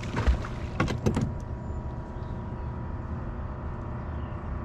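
Boat motor running steadily, with a few sharp knocks and rattles of gear being handled in the first second and a half.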